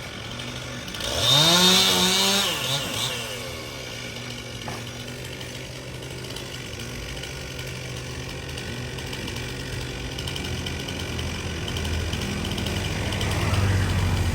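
Two-stroke chainsaw revved up briefly about a second in, its pitch rising and then dropping back to a steady idle. A lower engine sound grows louder near the end.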